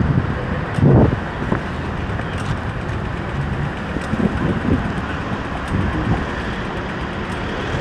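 Steady city street noise of passing traffic, with wind on the microphone and a few brief, indistinct voices.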